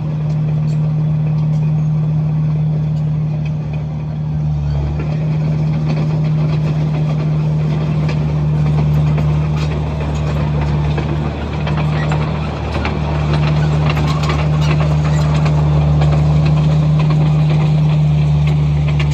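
Komatsu bulldozer's diesel engine running steadily, its pitch dipping briefly a few times.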